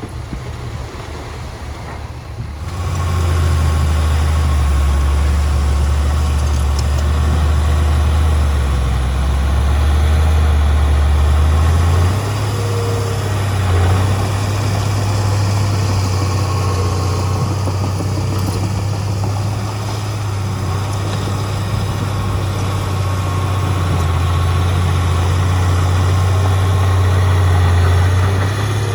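Heavy construction-machine diesel engine running with a steady low note. It gets much louder about three seconds in, and its pitch shifts up a little about twelve seconds in.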